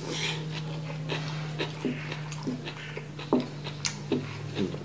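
Close-miked chewing and lip-smacking of a mouthful of japchae noodles and rice: a run of short wet smacks, about two a second, over a steady low hum.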